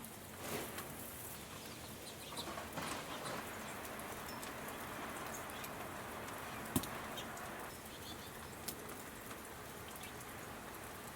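Small wild birds at a snowy feeder: soft wing flutters and a few sharp pecking clicks, the loudest about two-thirds of the way in, with faint high chirps, over a steady outdoor hiss.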